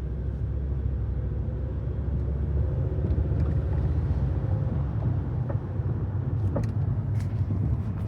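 Volvo car running with a steady low rumble, and a few faint, irregular clicks in the second half: the clicking noise whose cause the owner is asking about.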